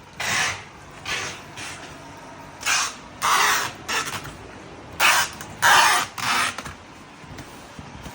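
Packing tape pulled off the roll to seal cardboard courier boxes: a series of short, harsh rasping pulls, some longer than others, with the loudest near the middle and two-thirds of the way through.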